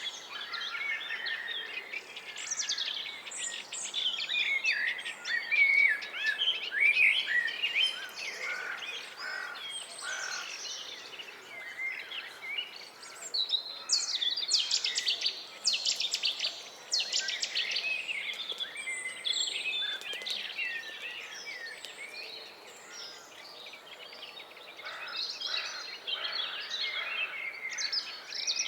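Several songbirds singing and calling at once: overlapping chirps and warbled phrases with fast trills, busiest about halfway through.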